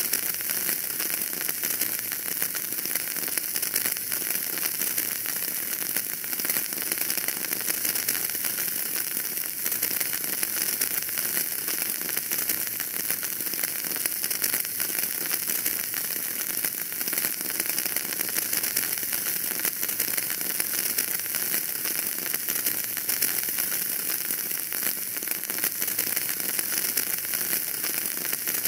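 Wood fire burning in a fireplace, crackling steadily with a dense run of small pops over a soft hiss.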